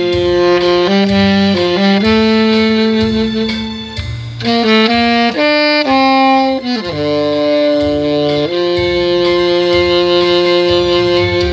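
Tenor saxophone playing a slow melody of held notes over a backing track with a steady beat, ending on one long sustained note.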